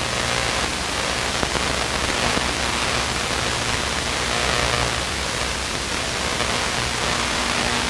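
Steady in-flight cabin noise of a Luscombe light aircraft in cruise: an even hiss of engine and airflow with a low steady hum underneath.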